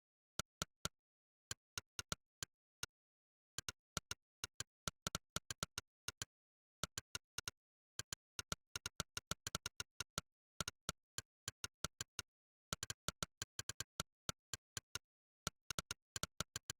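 Monkeytype's synthetic "click" keypress sound, played once for each keystroke: quick, uneven runs of sharp clicks that follow a typist's rhythm, broken by short pauses.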